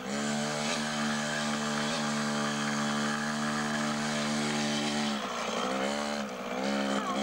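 Beta 50cc two-stroke minitrial motorcycle engine buzzing at steady revs for about five seconds, then the revs drop and rise unevenly.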